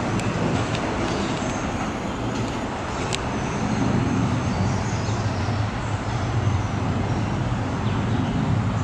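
Metro-North M-7A electric train rolling away down the line, a steady rumble that swells a little in the middle, mixed with road traffic on the overpass. A few light clicks sound in the first few seconds.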